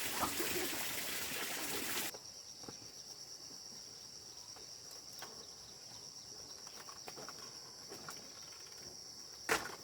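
A steady rushing noise cuts off suddenly about two seconds in. It leaves a steady, high-pitched insect chirring, with a few faint clicks and one sharp knock near the end.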